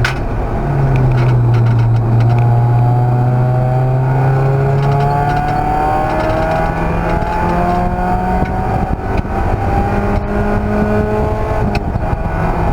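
Race car engine under sustained acceleration, its pitch climbing slowly and steadily through a long pull after a brief drop near the start, where the gear changes.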